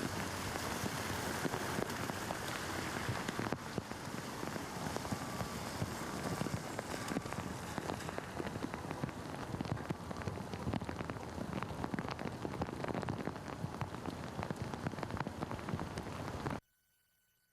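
Heavy rain falling and splashing on a city street, a dense hiss full of small drop crackles, with a slight change in character about three and a half seconds in. Near the end it cuts off abruptly to near silence.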